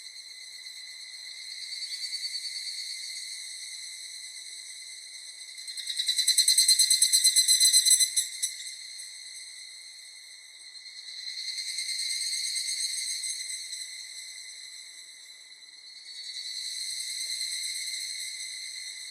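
Insects singing: a high, steady buzzing trill that swells and fades in slow waves, loudest and sharply pulsed about six to eight seconds in.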